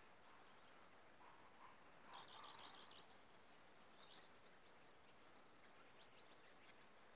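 Faint birdsong: a quick run of about eight high chirps about two seconds in, then scattered short chirps, over a steady faint hiss.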